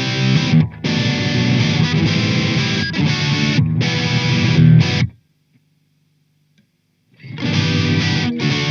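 Soloking MS-11 Classic Mk II electric guitar played through a distorted amp: loud chords cut off sharply between strokes. About five seconds in the playing stops for about two seconds of near silence, then starts again.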